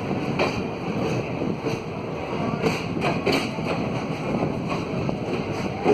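Freight train running by: a steady rumble with scattered sharp clacks every half second to a second or so.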